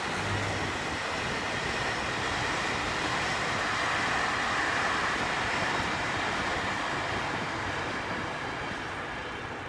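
Class 261 diesel express train passing at speed: a dense rush of rail and running noise that swells to its loudest about midway, then fades.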